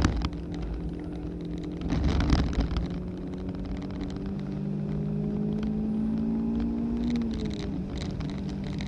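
Race car's engine heard from inside the cabin, pulling hard under acceleration with its pitch rising steadily, then dropping sharply at an upshift about seven seconds in. A brief rumble comes about two seconds in.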